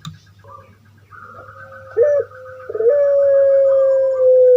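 Puter pelung (domestic ringed turtle dove) calling: a short coo about two seconds in, then a long drawn-out coo held steady and slowly falling in pitch.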